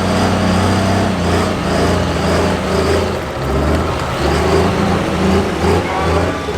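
Turbocharged diesel engine of a Light Pro Stock pulling tractor running hard and loud, its low drone swelling and dipping.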